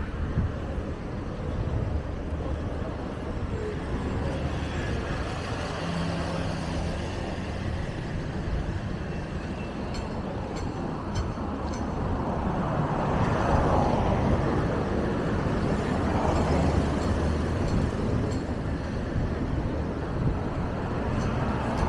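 Road traffic: engines and tyres running continuously, with a vehicle passing closer and louder from about 12 to 17 seconds in.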